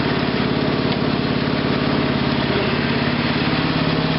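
A 1987 Rally lawn tractor's 12 hp Briggs & Stratton engine running steadily with an even, rapid firing beat.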